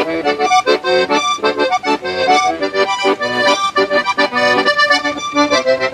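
Accordion music: a melody of quick, short notes over chords, in a traditional style.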